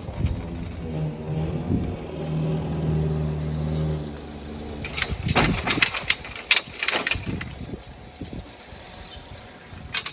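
Class 197 diesel multiple unit's engine running steadily as the train passes. This is followed by a cluster of sharp clacks about five and six and a half seconds in. The sound then fades away.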